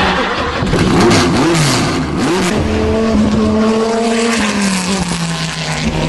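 Dodge Viper race car's V10 engine revving hard. Its pitch rises and falls quickly several times over the first two and a half seconds, then holds a steady high drone.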